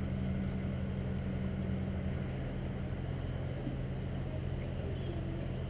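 Motorboat engine running steadily underway, a constant low hum.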